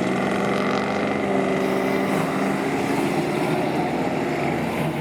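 Ford Mustang's engine running steadily as the car drives past, a low, even drone that eases slightly a couple of seconds in.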